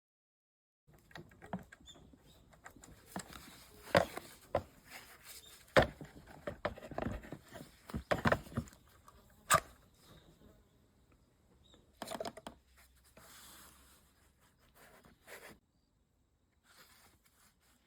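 Irregular clicks, taps and short scraping sounds of hand work on a small metal part. A few sharper knocks stand out, the loudest about four, six and nine and a half seconds in, and the work stops after about fifteen seconds.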